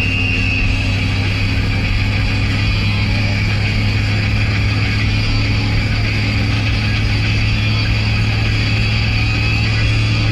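Steady drone of a road vehicle on the move: a low hum holding one pitch, with an even rush of road noise.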